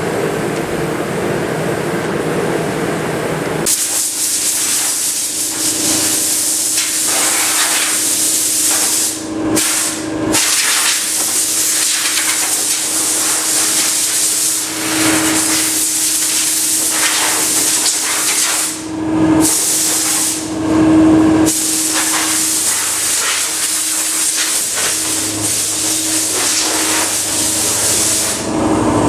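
Paint being sprayed onto car body panels: a loud, steady hiss in long passes, broken by a few short stops. It begins about four seconds in, after a lower steady hum.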